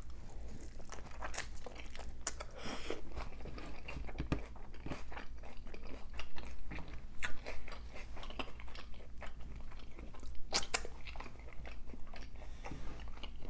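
A birria taco being bitten and chewed: irregular crunches and mouth clicks, a few of them louder about six, seven and ten and a half seconds in.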